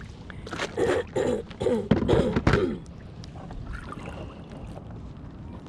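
A person's voice, short indistinct sounds for about the first two and a half seconds. Then only a faint steady background hiss of wind and water.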